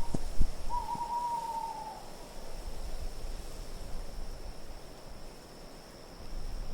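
Designed winter wind ambience: a low steady wind rumble, two dull thumps right at the start, and a short whistling tone that dips slightly in pitch about a second in.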